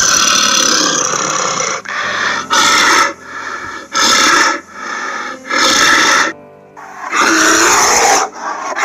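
A bear's calls repeated about six times, each lasting under a second to nearly two seconds with short gaps between, heard over background music.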